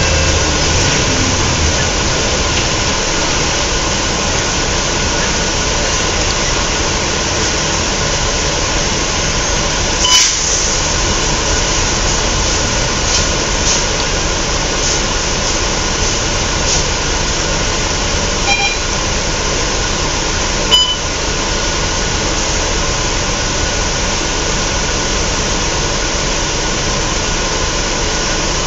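Scania L113CRL bus's 11-litre six-cylinder diesel engine running steadily, with road and body noise, and a few sharp clicks along the way.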